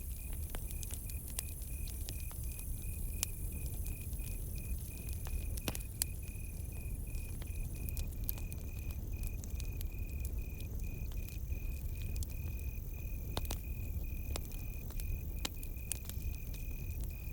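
Campfire crackling with scattered sharp pops over a low steady rumble, while a cricket keeps up a steady pulsing chirp.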